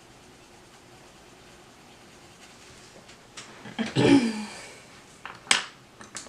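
Colored pencils clattering and clicking together as one is put down and another picked up. There is a clatter about four seconds in, then a few sharp clicks.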